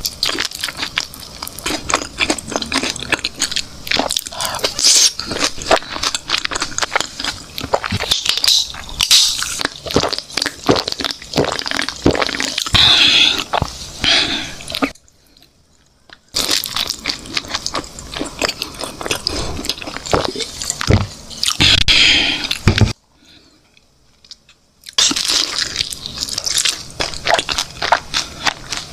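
Close-up eating sounds of chicken being bitten and chewed, with dense, irregular crunching. The crunching stops briefly twice, about halfway through and again a few seconds later.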